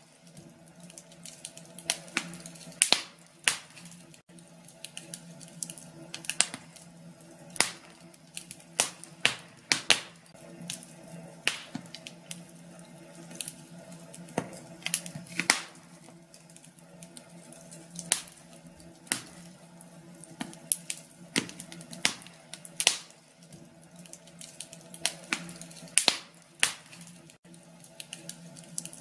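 Wood fire in a fireplace crackling: irregular sharp pops and snaps, a few a second at times, over a soft steady hiss.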